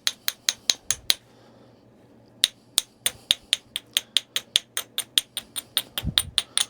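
Rapid, light, even strikes of a knapping bopper against a Tallahatta quartzite point, about five sharp clicks a second, pausing briefly about a second in, with a dull bump near the end.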